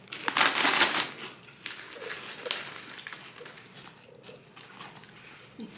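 A bag of Ruffles potato chips rustles and crinkles for about the first second. After that come quieter scattered clicks and crunches of the chips being eaten.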